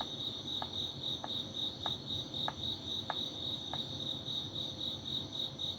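Crickets chirping, a steady rapid high-pitched pulsing. About half a second in, a faint tick starts, repeating evenly about every two-thirds of a second six times.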